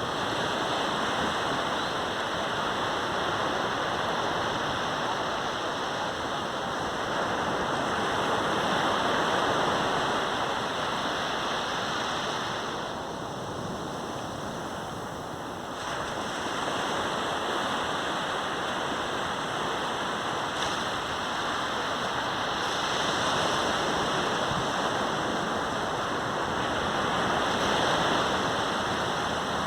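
Sea surf on a beach: waves breaking and washing in as a continuous hiss that swells and eases, with a quieter lull about halfway through.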